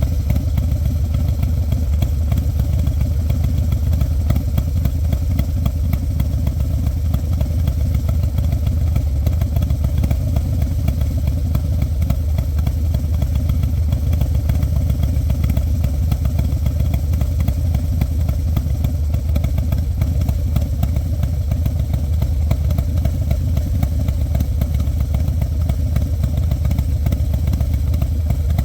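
2023 Harley-Davidson Street Glide ST's Milwaukee-Eight 117 V-twin idling steadily through a Graffeo Originals exhaust, with a Star Racing 30-30 camshaft fitted. The exhaust note is deep, even and pulsing, and the revs hold steady throughout.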